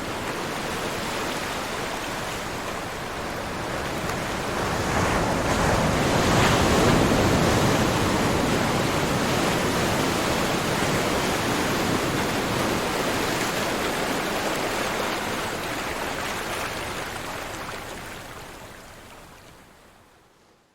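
Ocean surf: a steady wash of waves that swells from about four seconds in and fades out near the end.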